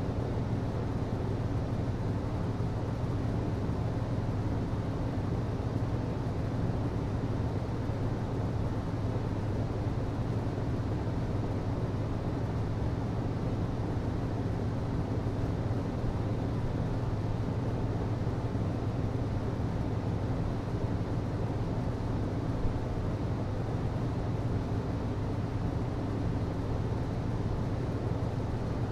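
HVAC system running steadily: a constant low hum under an even hiss.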